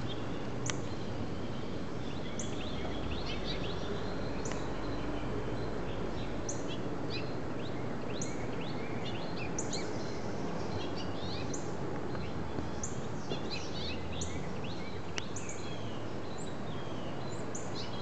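Small birds chirping, many short, sharp high chirps coming every second or so, more often in the second half, over steady outdoor background noise.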